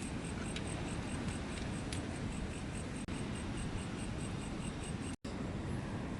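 Insects chirping in a fast even pulse, about four to five chirps a second, over a steady rushing background. The sound drops out abruptly for an instant about five seconds in, and the chirping is gone after it.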